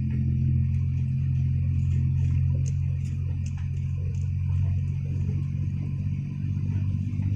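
Isuzu Deca diesel dump truck running steadily on the move, heard from inside the cab as a deep, even engine drone.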